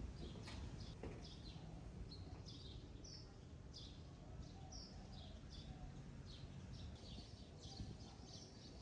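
Small birds chirping, a quick run of short, high calls repeated throughout, over faint low background noise.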